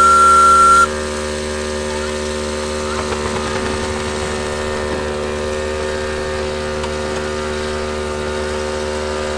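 Steam whistle of a miniature live-steam traction engine sounding one steady high note that cuts off about a second in. A steady mechanical hum of several fixed tones runs on underneath, with a few faint clicks.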